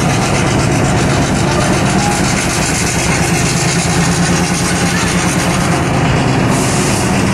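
Steady running noise of a diesel-hauled train rolling along the track, heard from aboard the caboose: a constant low drone under the noise of wheels on the rails.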